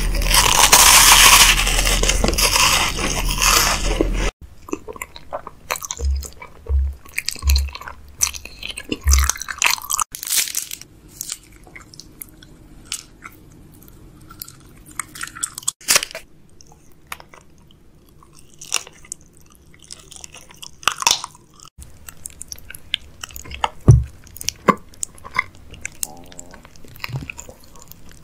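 Close-miked biting and chewing of crunchy snacks, a chocolate wafer among them: a loud, dense crunch for the first four seconds, then quieter, scattered crackles and crunches of chewing.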